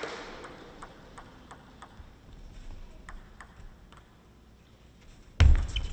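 Table tennis ball clicking off paddles and the table in a rally, light sharp ticks a few times a second over a hushed hall. Near the end a sudden loud burst of crowd noise breaks out.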